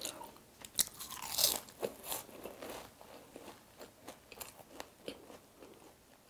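Chewing a bite of puff-pastry egg tart: the flaky crust crunches and crackles in quick small clicks, densest in the first three seconds, then thinning to a few soft ones.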